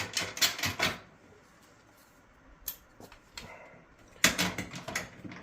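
Short runs of metallic clicks and clatter from a wrench tightening the nut onto a new dryer drum support roller's shaft. One burst at the start, a couple of single clicks in the middle, and another burst about four seconds in.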